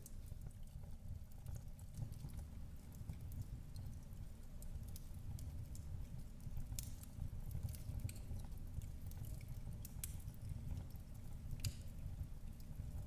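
Wood fire crackling in a fireplace: a steady low rumble of flames under scattered small crackles, with two sharper pops late on.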